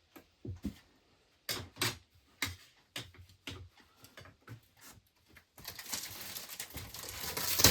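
Objects being handled and set down: a string of separate knocks and clicks, then a continuous rustle starting near the end.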